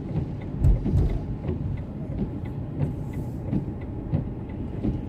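Car cabin noise while driving: a steady low rumble of engine and tyres, with a single low thump just under a second in.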